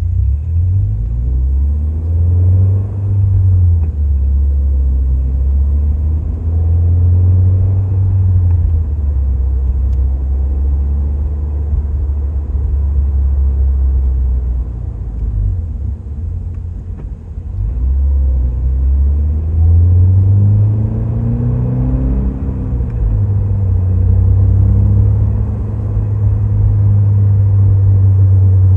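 2023 Toyota GR86's 2.4-litre flat-four running through a Fujitsubo A-R catback exhaust while driving, a deep steady low rumble at cruise. About twenty seconds in the pitch climbs as the car accelerates, then settles back to a steady cruise.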